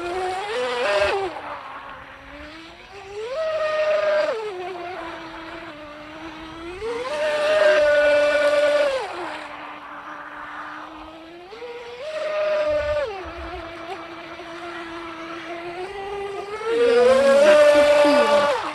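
RC mini speedboat's 2040 brushless motor and propeller whining as the throttle is worked. The pitch jumps up in five bursts of one to two seconds, the longest near the end, and drops back each time to a steadier, lower whine.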